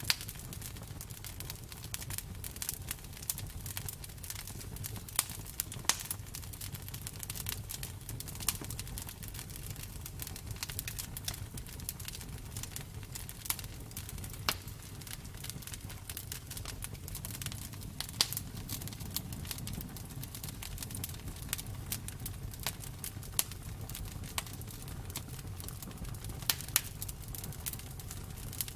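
Campfire crackling: burning wood gives irregular sharp pops and snaps, a few of them louder, over a low steady rumble.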